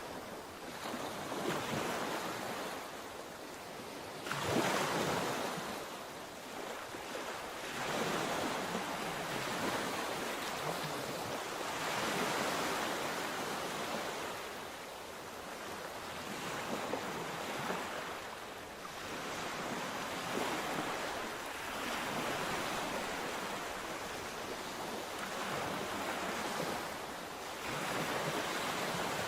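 Mediterranean sea waves breaking and washing on the shore, the surf swelling and ebbing every few seconds, with the strongest break about four seconds in.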